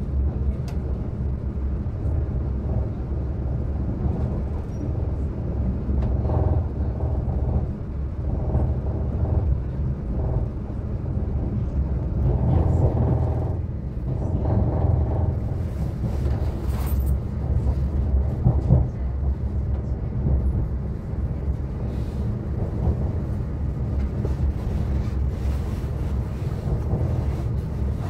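Steady low rumble and hum inside a passenger train carriage, with a few sharp clicks and knocks about two-thirds of the way through.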